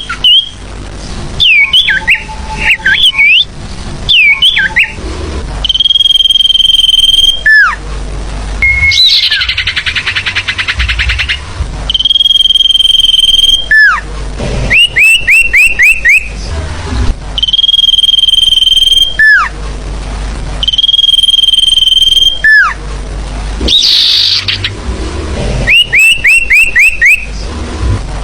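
Bird-lure recording of forest birds calling loudly: long level whistles that each end in a sharp falling note, alternating with quick runs of five or six short rising notes, and a fast buzzy trill about a third of the way through.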